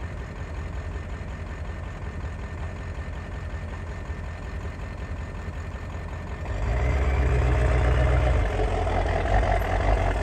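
A 7.3-litre diesel V8 truck engine running, cold-weather start behind it: a steady low idle that grows clearly louder about six and a half seconds in and holds at the higher level.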